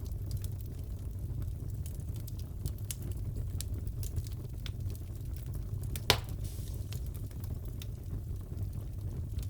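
Wood fire crackling in a fireplace: scattered small pops over a steady low rumble, with one sharp, louder pop about six seconds in.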